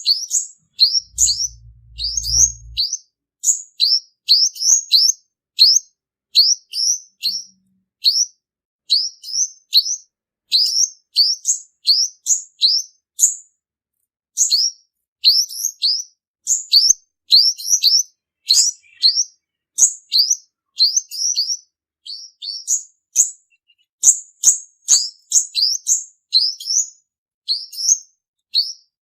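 Male olive-backed sunbird calling: a fast series of short, sharp, high chirps, about two to three a second, with brief gaps. This is the male's call used as a trapping lure.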